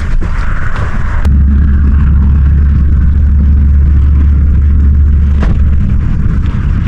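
Strong wind buffeting the microphone, a heavy low rumble that swells for about four seconds between two sharp clicks.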